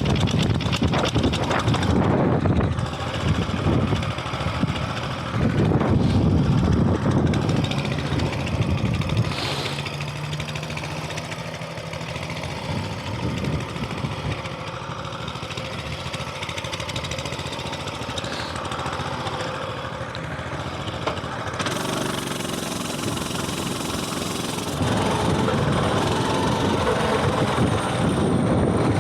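Coleman mini bike's small single-cylinder four-stroke engine running under throttle, dropping to a quieter, steady lower speed about nine seconds in, then picking up again near the end.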